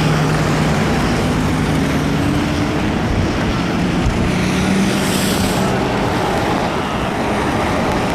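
Riding noise from a fat-tire e-bike on wet pavement in the rain: a steady rush of wind and tyre hiss, with a low hum that shifts in pitch. A brief louder hiss comes about five seconds in.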